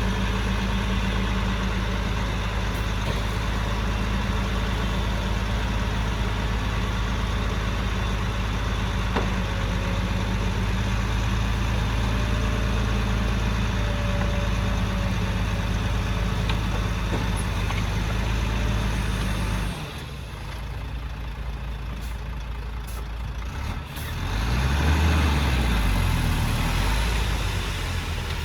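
Heavy construction machine's engine running steadily with a deep hum. About two-thirds of the way in the sound cuts abruptly to a quieter scene. Near the end a louder engine comes in, its pitch rising and falling as it revs.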